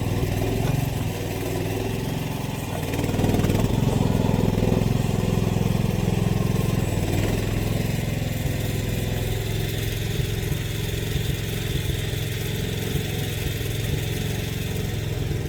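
AGT mini excavator's engine running steadily, growing louder for a few seconds from about three seconds in and then settling back.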